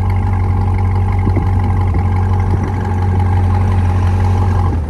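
2021 Corvette Stingray's 6.2-litre V8 idling steadily at an even pitch, with no revving. The engine note cuts off at the very end as the car is shut down.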